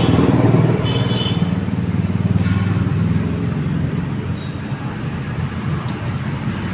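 A motor vehicle engine running steadily with a low drone, a little louder in the first second.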